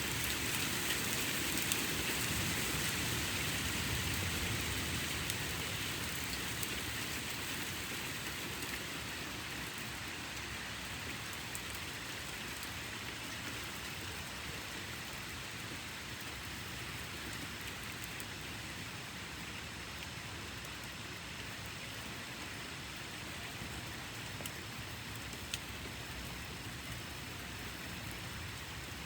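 Steady rain falling in a thunderstorm, easing a little over the first ten seconds, with a few sharp ticks of single drops. A low thunder rumble sits under the rain in the first few seconds.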